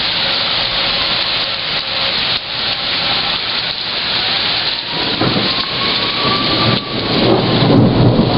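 Heavy thunderstorm rain and wind make a loud, steady hiss throughout. About five seconds in, a low rumble of thunder builds and grows louder toward the end.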